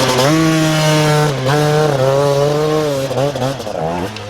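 Dirt bike engine revving hard and held at high revs, with a brief dip about a second and a half in, then easing off near the end.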